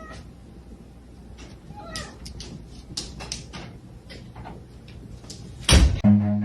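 A cat gives one short meow about two seconds in, amid scattered light clicks and taps. Near the end comes a loud thump, and then low bowed-string music starts.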